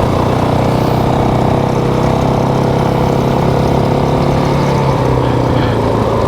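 Motorcycle engine running at a steady speed, its pitch holding level throughout.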